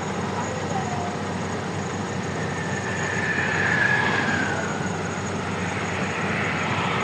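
Steady rumble of heavy diesel machinery, with a high whine that swells and falls away in pitch, loudest about four seconds in.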